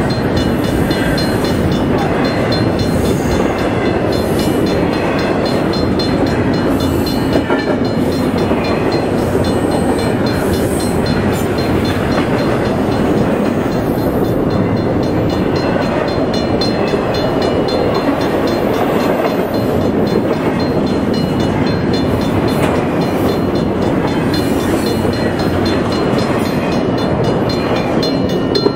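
Norfolk Southern double-stack intermodal container train passing close by at speed: a steady, loud noise of wheels running on the rails and the cars going by.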